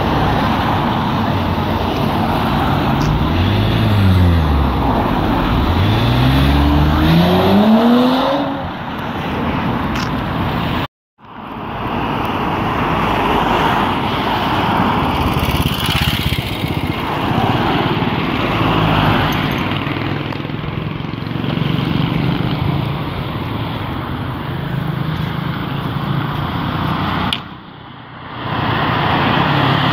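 Sports car engines driving past, one revving hard with its pitch climbing for several seconds, then steady engine and road noise from passing cars. The sound drops out completely for a moment about eleven seconds in.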